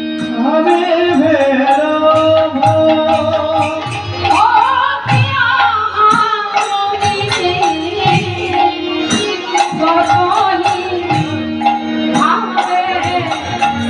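Bengali kirtan music: singing over hand-drum and jingling percussion, with held instrumental tones underneath and a steady beat.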